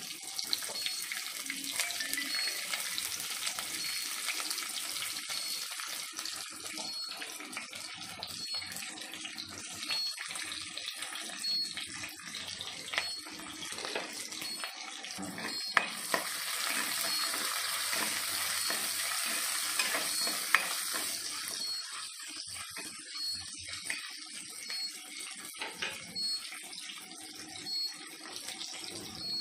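Sliced onions, with fennel seeds and curry leaves, frying in oil in a kadai: a steady sizzle with crackling that grows louder for a few seconds midway, with a couple of sharp clicks.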